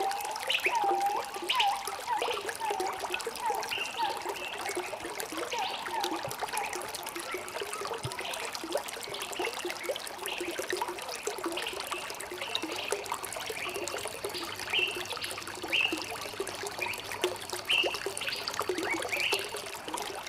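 Running water trickling and burbling, with many short pitched blips over a steady wash.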